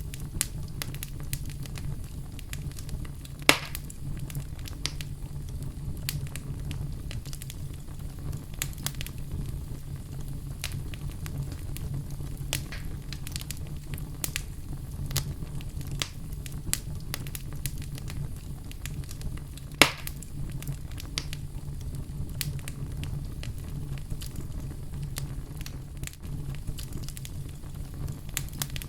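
Wood fire in a fireplace crackling steadily with frequent small pops and snaps, over a steady low rumble. Two much louder pops come about three and a half seconds in and about twenty seconds in.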